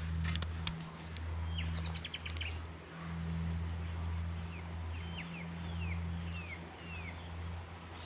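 Birds calling with short, descending whistles, several in the second half, over a steady low hum that swells and fades, with a few clicks near the start.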